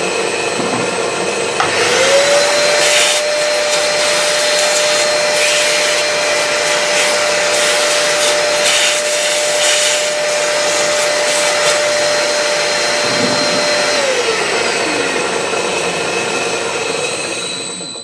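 Milling machine running, a steady whirring with a whine that rises in pitch about two seconds in, holds, and falls back after about fourteen seconds; the machine cuts off right at the end.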